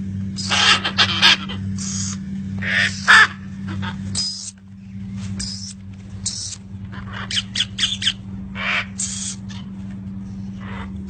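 Birds giving many short, harsh, cawing calls at irregular intervals, over a steady low hum.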